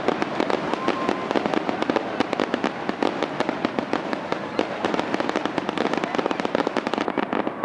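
Fireworks finale: a rapid, continuous barrage of aerial shell bursts, many bangs and crackles a second with no break.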